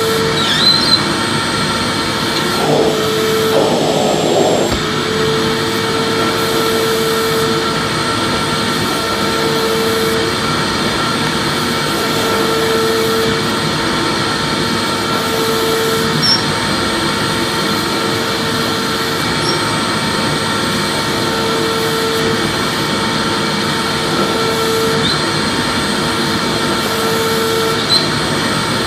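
Vacuum cleaner running steadily: a constant airy rush with a steady whine, and a lower hum that drops in and out every second or two. There is a brief rougher surge about three to five seconds in.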